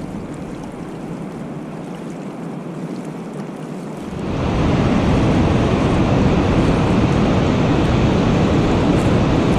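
Steady rushing noise of wind and water on an open lake, growing much louder and deeper about four seconds in.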